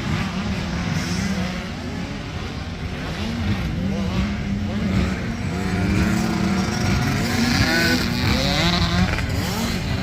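Several motocross dirt bike engines racing on the track, each one revving up and dropping back as the riders work the throttle and shift, with pitch rising and falling over and over.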